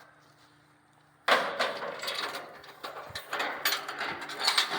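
Near quiet with a faint hum, then about a second in a sudden loud burst of clattering and rattling that goes on as irregular knocks and clicks.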